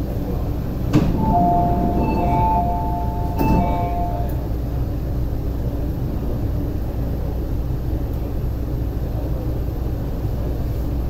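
Steady low hum inside an MTR East Rail Line R-train standing at a platform. About a second in, a sharp click, then a two-tone electronic chime repeats for about three seconds, with another click near its end.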